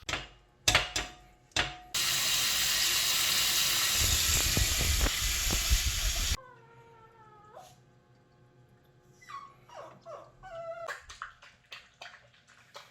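A few sharp clicks, then a loud, steady rushing noise for about four seconds that starts and stops abruptly. After it, a dog whines in high, falling cries, twice, while it is made to sit and wait.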